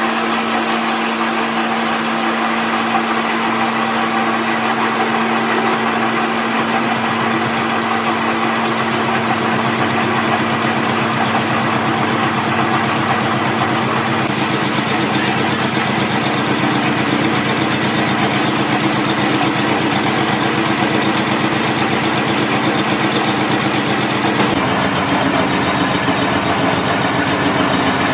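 A machine's motor or engine running steadily, with its low tones changing near the end.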